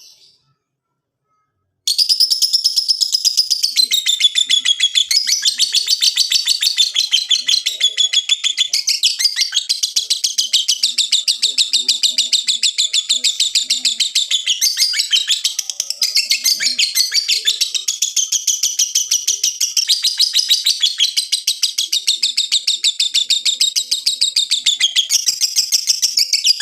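Lovebird giving a long, unbroken ngekek: a very fast, high chatter of chirps that shifts up and down in pitch without pause. It starts about two seconds in.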